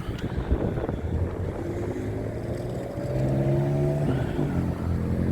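A passing road vehicle's engine accelerating, its pitch rising steadily and getting louder over the last few seconds. Wind gusts hit the microphone in the first second.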